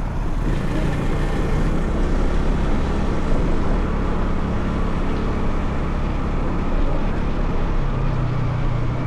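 Motorcycle engine running at a steady cruise, heard from the rider's seat, with a steady hiss of riding noise over it. Its low note grows stronger near the end.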